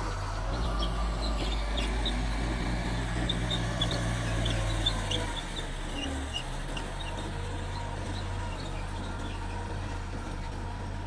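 Mitsubishi bulldozer's diesel engine running steadily at work, its note shifting about halfway through. Scattered short, high chirps or squeaks sound over it in the first half.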